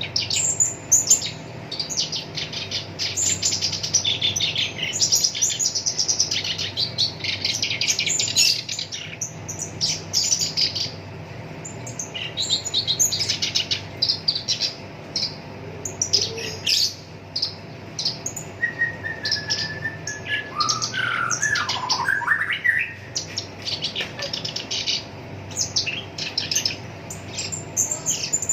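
Black-browed reed warbler singing a fast, harsh, chattering song of rapid scratchy notes, with a brief lower whistled phrase that slides downward about two-thirds of the way through. A faint steady hum runs underneath.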